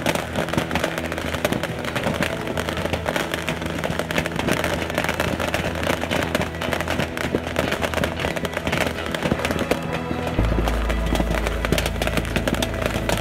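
Massed bottle rockets going off together: a dense, continuous crackle of rapid pops, with background music playing along.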